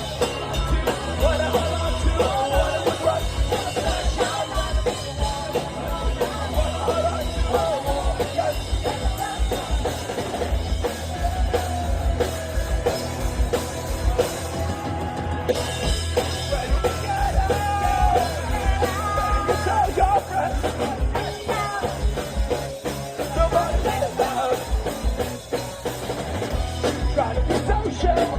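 Live punk-rock band playing loud and fast: driving drum kit with a rapid kick-drum pulse under distorted electric guitars and bass, with some singing or shouting in the mix.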